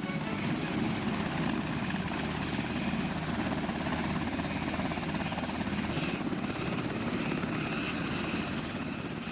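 A group of Mi-8 helicopters flying low, heard as a steady, dense rotor chop with engine drone.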